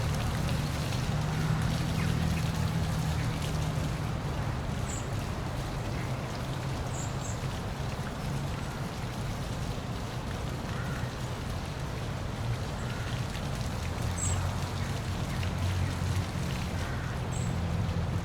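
Park waterfall running steadily, a continuous rush of falling water over a steady low rumble, with a few faint high chirps now and then.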